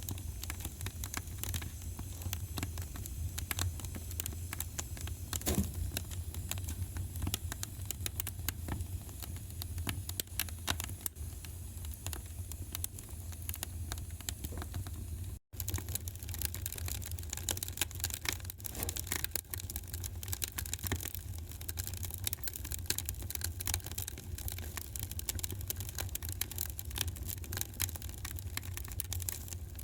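Wood fire in a fireplace crackling and popping in a dense, irregular stream of small snaps over a steady low rumble. The sound cuts out for an instant about halfway through.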